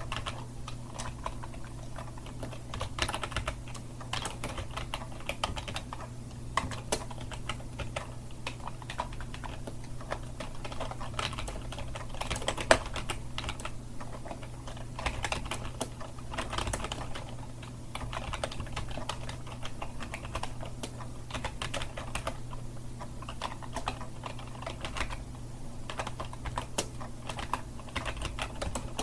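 Continuous fast typing on a computer keyboard: a dense, irregular run of key clicks with a few louder strokes, over a steady low hum.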